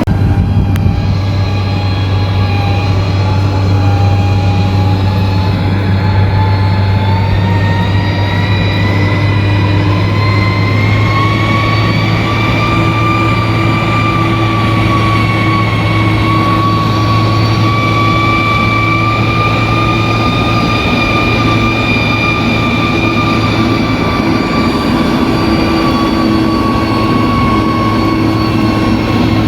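Bulldozer's diesel engine running steadily under load, with a whine that climbs in pitch over the first ten seconds or so and then holds steady.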